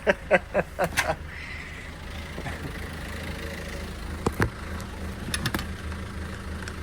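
Sailboat's inboard engine idling steadily with a low hum, with a few sharp knocks about four and five seconds in.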